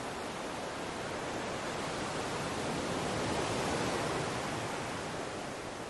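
Steady rushing noise with no distinct events, swelling a little in the middle and easing off toward the end.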